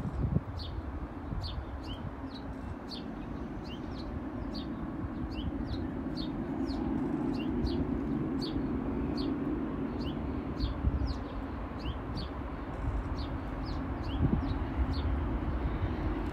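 A small bird calling steadily, short falling chirps about two a second, alternating a higher and a lower note. Under it runs a steady low rumble from a distant approaching diesel freight train.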